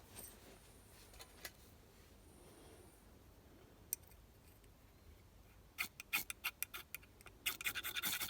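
A few faint clicks, then from about six seconds in a run of sharp scraping strokes that comes faster and louder near the end: a striker scraped hard down a ferrocerium rod to throw sparks onto tinder.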